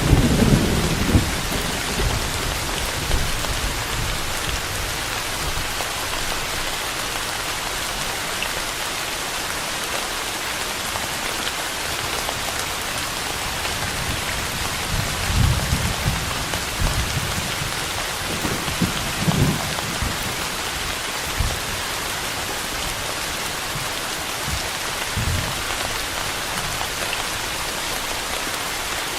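Steady rain falling, an even hiss throughout, with low rolling rumbles of thunder near the start, around the middle and again later on.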